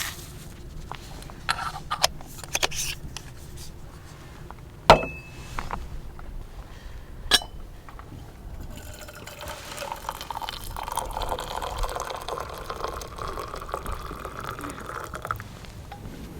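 A few sharp clinks of cup or utensils, two of them ringing briefly, then liquid poured steadily into a vessel for about six seconds in the second half.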